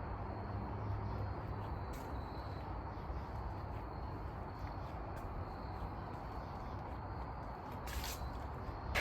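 Steady low rumble of the 410 Magnum V8 Ram pickup running with its new 3-inch dual exhaust, fairly quiet, with a short click at the very end.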